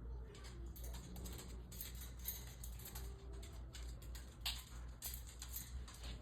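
Faint, irregular light taps and clicks, the sharpest about four and a half seconds in, over a steady low hum.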